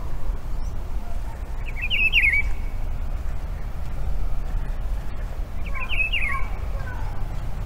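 A bird singing two short phrases of rapid zigzag chirps, about two and six seconds in, with fainter chirps between them, over a steady low rumble.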